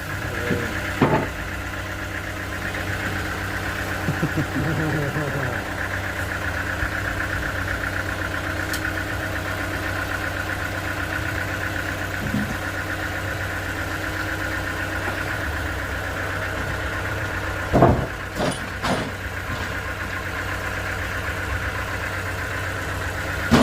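An engine running steadily at a constant speed, with a few short knocks and clatters about a second in, around four to five seconds in, and a cluster near the end.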